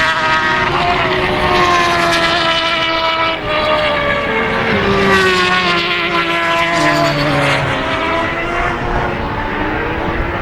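Several racing motorcycle engines running hard at once, their pitch climbing and dropping as the bikes rev and change gear.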